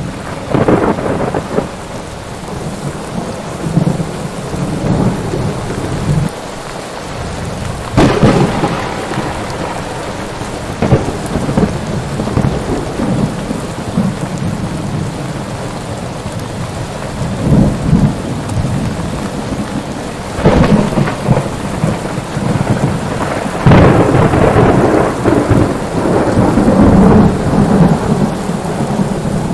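Thunderstorm: steady heavy rain with repeated rolls and cracks of thunder, the biggest starting about eight seconds in and a long rumbling roll near the end.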